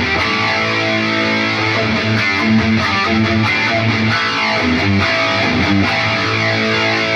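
Electric guitar played through an Atomic AmpliFire amp-modelling pedal with a distorted tone, heard through cheap computer speakers: continuous riffing with quick changes of note.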